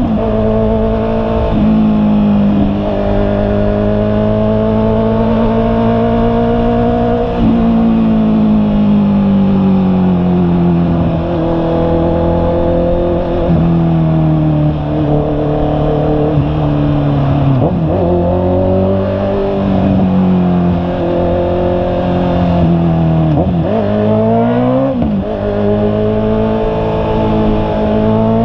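Honda CB650R's inline-four engine running under way, its pitch rising and falling with the throttle. Several sudden drops and climbs in pitch, as with gear changes, including a quick run of them near the end.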